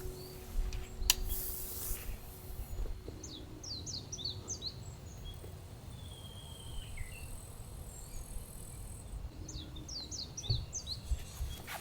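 Birds calling over a steady low outdoor rumble: two quick bursts of high, rapid chirps and one longer falling whistle between them. A single sharp click about a second in.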